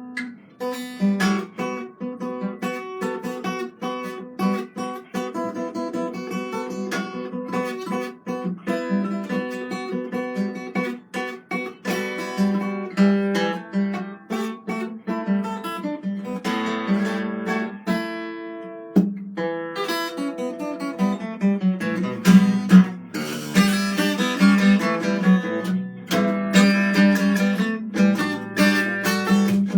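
Acoustic guitar being played, plucked notes and strummed chords, picking up in density over the last several seconds.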